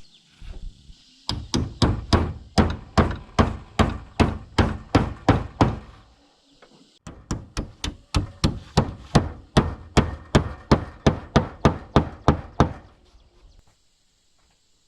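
Rapid hammer blows on wood, about three or four a second, in two long runs with a short pause between them, fading out near the end.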